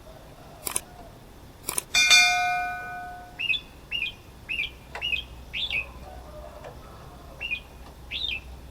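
Two sharp knocks, then a loud metallic clang that rings and fades over about a second and a half. A red-whiskered bulbul then calls: a run of about seven short, hooked notes in two and a half seconds, and two more near the end.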